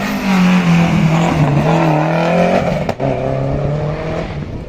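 Peugeot 206 WRC's turbocharged four-cylinder rally engine running hard as the car drives past. Its note drops lower, with a brief break about three seconds in, like a gear change, then fades away near the end.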